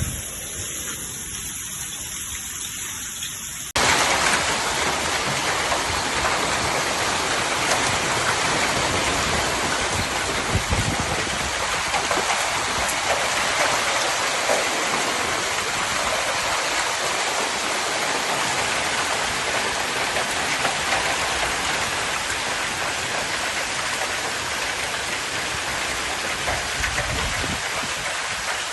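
Hail and rain pelting down in a dense, steady hiss and patter. A quieter stretch of falling water cuts off suddenly about four seconds in, and a much louder downpour follows.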